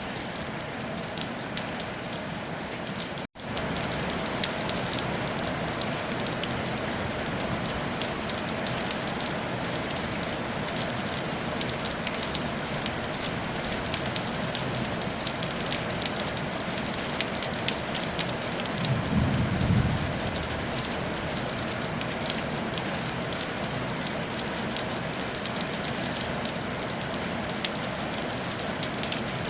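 Steady rain falling on a tile roof, a dense even patter. The sound cuts out for an instant a few seconds in, and a brief low rumble comes about two-thirds of the way through.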